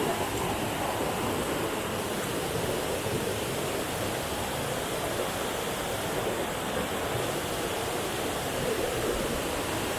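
Steady rush of falling water from a waterfall, an even, unbroken noise throughout.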